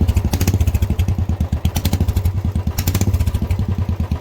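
Royal Enfield Bullet's single-cylinder engine idling through a loud modified exhaust, a steady, even run of rapid thumps.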